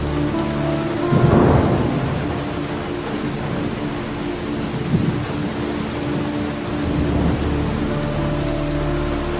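Steady rain falling, with thunder rumbling in a swell about a second in, a short sharp crack about five seconds in and a softer rumble around seven seconds.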